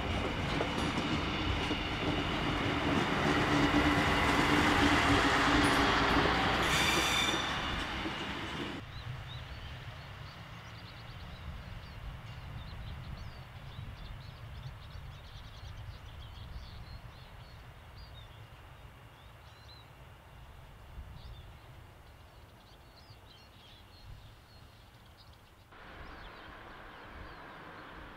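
A Class 628 diesel railcar running past, with engine and wheel noise that peaks about five seconds in. After an abrupt drop, only a low distant rumble remains, with faint high chirping over it.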